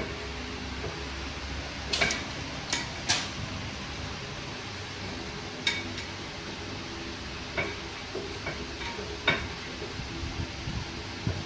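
Metal tools or parts clinking and clanking against each other during brake work on a car, in about a dozen irregular sharp ringing knocks. The loudest come about two and three seconds in and again near nine seconds.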